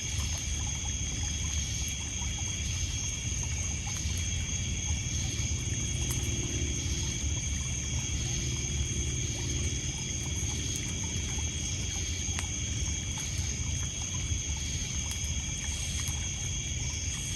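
Night ambience of crickets and other insects trilling steadily at several high pitches, one chorus pulsing about once a second. Under it runs a low, steady rush of water lapping on a pebble shore, with a few sharp crackles from a wood fire.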